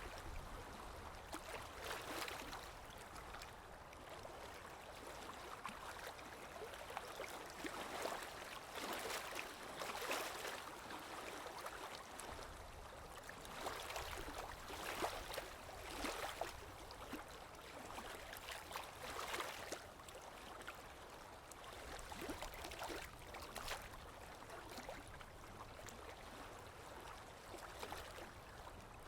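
Sea waves washing in small repeated surges of splashing water, soft and continuous.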